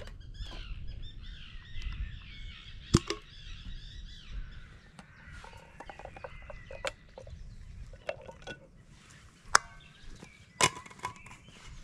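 A small bird sings for the first few seconds. Sharp knocks and clinks come from cups and a thermos being handled, the loudest about three seconds in, at about nine and a half seconds and near the end.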